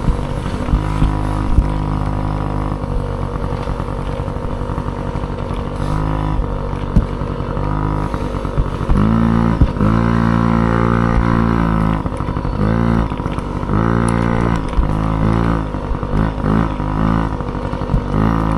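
Dirt bike engine running hard under throttle. In the second half the engine note climbs and drops again and again as it revs up and eases off, with scattered sharp knocks throughout.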